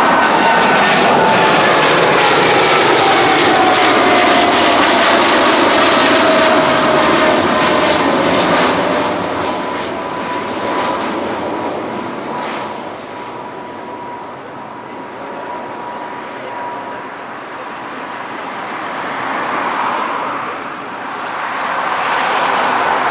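Boeing 787-9 jet engines at takeoff thrust, loud at first as the airliner passes, their whining tones sliding down in pitch as it climbs away. About eight seconds in the noise begins to fade, leaving a thinner steady whine, with swells of noise near the end.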